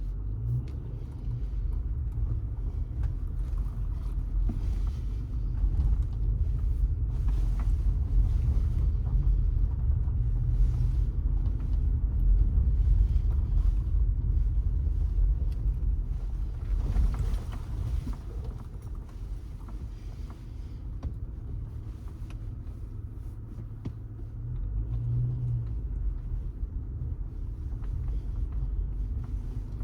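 Car driving along a city street: a steady low rumble of engine and tyres that grows louder in the first half, eases off past the middle and rises again near the end.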